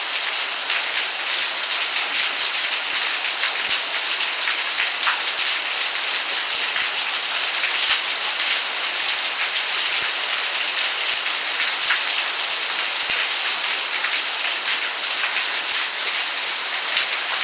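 Steady heavy rain falling, an even hiss with the patter of individual drops striking a surface.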